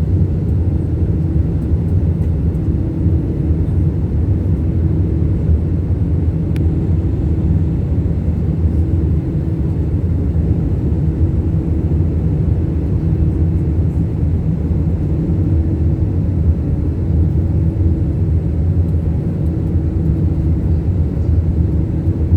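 Steady drone of an airliner's engines and rushing air heard inside the passenger cabin during the climb after takeoff.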